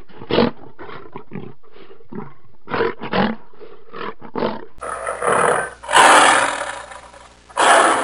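Lion vocalising: a string of short grunts for the first few seconds, then three louder, longer, rasping roars from about five seconds in.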